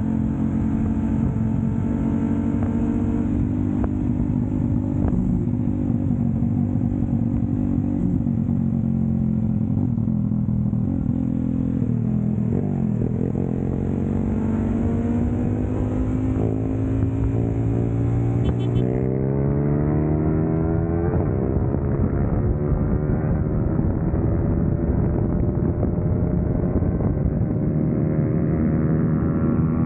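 Kawasaki Versys-X 300's parallel-twin engine under way. It eases off about ten to twelve seconds in, then pulls hard through the gears, its revs climbing in several rising sweeps.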